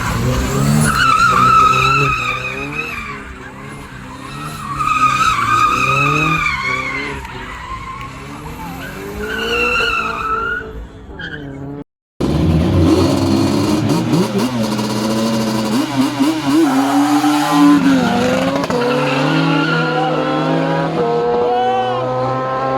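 A car's engine revving hard as its tyres squeal under wheelspin, the squeal wavering up and down. After an abrupt cut, an engine revs and accelerates, its pitch climbing several times in a row as it pulls through the gears.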